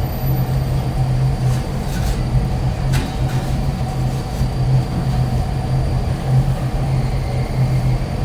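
Steady low mechanical rumble, with a couple of faint clicks about two and three seconds in.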